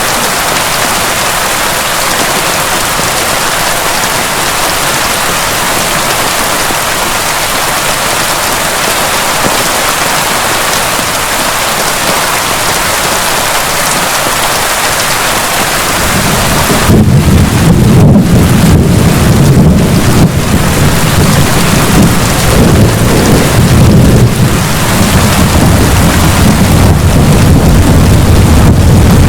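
Heavy rain falling steadily. About halfway through, a long low roll of thunder comes in and goes on rumbling to the end, louder than the rain.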